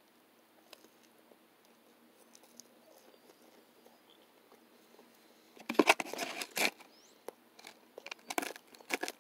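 Chewing and crunching a mouthful of toast, quiet at first, with a run of loud crunches about six seconds in. Near the end come short clicks and scrapes of a knife and fork cutting on a paper plate.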